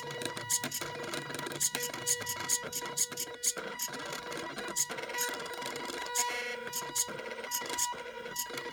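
Scrap DVD-drive stepper motors of a small Arduino CNC pen plotter running as it draws: a steady whine that stops and restarts with each short move, with frequent ticks and clicks.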